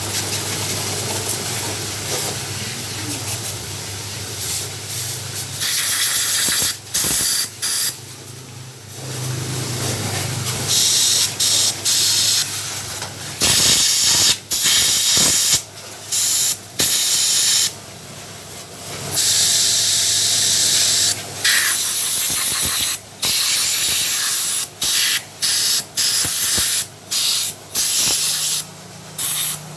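Compressed air hissing through motorcycle carburetor jets and passages in repeated bursts that start and stop sharply, some held for a few seconds and some short puffs, blowing out dirt and sand. A low steady hum sits under roughly the first ten seconds.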